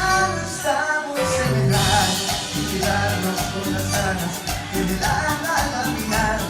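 Live Latin cumbia band playing an instrumental passage: a melodic lead line over bass and a steady, quick percussion beat.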